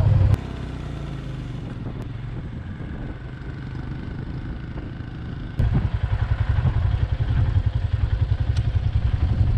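Royal Enfield Himalayan's single-cylinder engine running while the motorcycle is ridden, heard in a run of spliced riding clips: loud at first, quieter after about a third of a second, then loud again with a fast pulsing beat from about five and a half seconds in.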